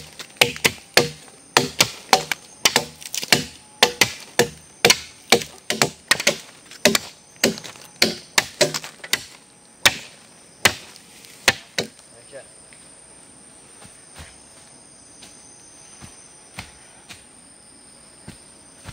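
Rapid series of sharp knocks of a tool striking wood, two or three a second, stopping about twelve seconds in; after that only a few scattered taps remain.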